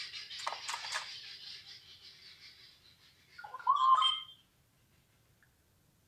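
A bird calling: a long, harsh, hissing call, then about three and a half seconds in a short, louder call that bends in pitch.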